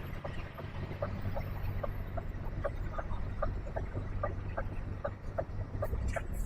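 Articulated lorry's reversing alarm beeping rapidly, about two or three short beeps a second, over the diesel engine running.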